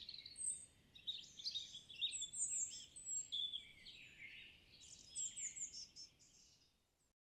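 Songbirds singing: quick, high chirps and trills, several overlapping, that fade out near the end.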